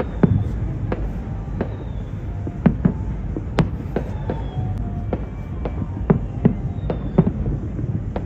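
Aerial fireworks bursting: a string of sharp bangs, unevenly spaced at about two a second, the loudest about halfway through, over a steady low rumble.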